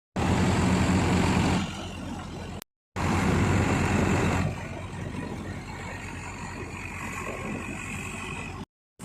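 Tractor engine running, heard as two short clips split by a brief silent cut. In each clip it is loud for a second or more, then settles to a lower, steady level.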